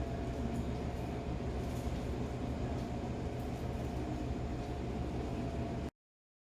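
Steady low rumble of a running vehicle with a constant hum over it, cutting off suddenly about six seconds in.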